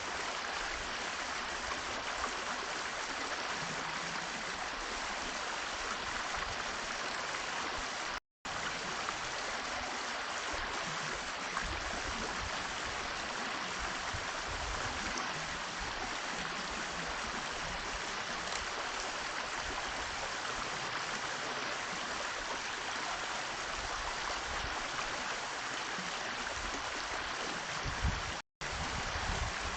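Steady rushing noise with no distinct calls, broken twice by brief total dropouts to silence, about eight seconds in and near the end.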